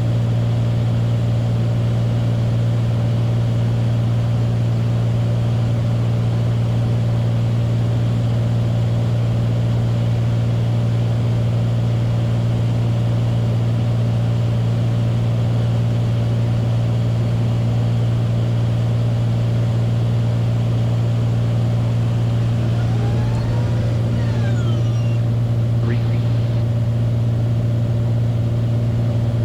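Steady drone of a Beechcraft Bonanza's piston engine and propeller in cruise, heard from inside the cockpit, with a few faint gliding tones near the end.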